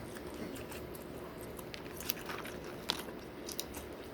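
Close-miked chewing and biting of food, with scattered short crunchy clicks; a couple of sharper clicks come about two and three seconds in.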